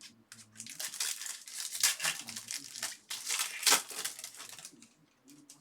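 Foil baseball card pack wrappers being torn open and crinkled by hand, a run of irregular rustling bursts that are loudest about two seconds in and again just before four seconds, dying away near the end.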